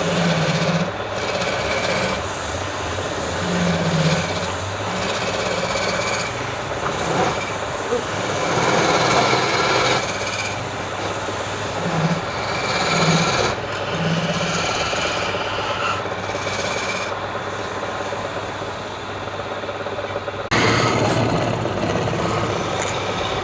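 Wood lathe running while a turning tool cuts or scrapes the spinning wood: a continuous rasping, rubbing noise that swells and eases, changing character about twenty seconds in.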